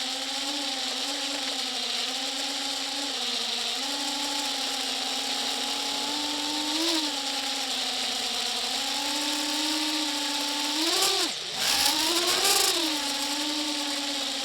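A motor running steadily at a constant pitch, which sags sharply for a moment about eleven seconds in and then picks back up.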